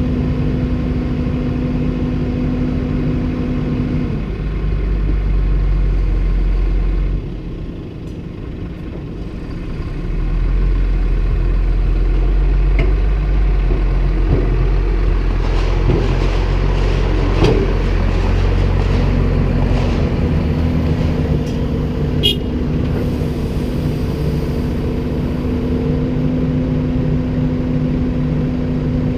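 Komatsu PC290-10 hydraulic excavator's diesel engine running and working under changing load. It eases off for a few seconds, then pulls hard with a heavy low rumble. A few metallic knocks come through in the middle, and there is one sharp click a little later.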